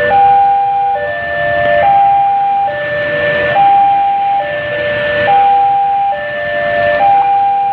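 Railway level-crossing electronic warning alarm sounding a short multi-note chime that repeats over and over, about every second and a half to two seconds, over a steady background rumble.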